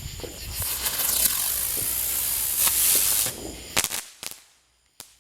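Firework hissing loudly as it sprays sparks for about three seconds, then two sharp pops, after which it dies away.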